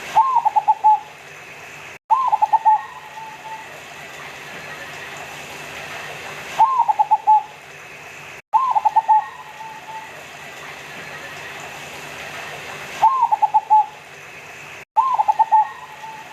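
Zebra dove (perkutut) cooing: six calls, each a rising note followed by a quick run of stuttering coos. The calls come in pairs about two seconds apart, with longer pauses between the pairs, over a faint steady hum.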